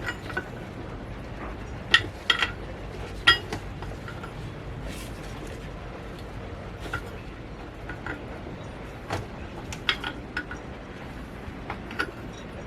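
Scattered sharp clinks and clicks of hose fittings and tools being handled during plumbing work, loudest a couple of seconds in, with a few more near the end, over steady low background noise.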